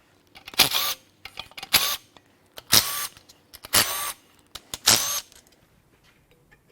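Cordless power tool spinning in five short bursts about a second apart, each with a brief whir that winds down, as the oil pump bolts are run out.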